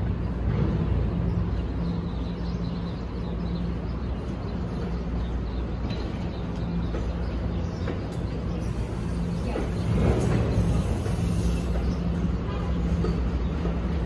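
Steady low hum and rumble of an NJ Transit commuter train of multilevel cars on a far track, beginning to pull out near the end, with a brief swell about ten seconds in.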